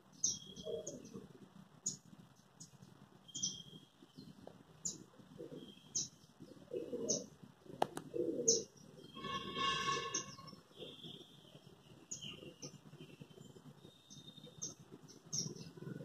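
Small birds chirping at a window: short, high calls about one a second, over low household background noise. A brief tone with several pitches sounds about nine seconds in.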